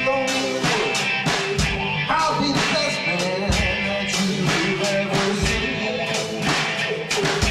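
Electric guitar and a drum kit playing an instrumental rock passage, the drums keeping a steady beat with cymbal hits under sustained guitar notes.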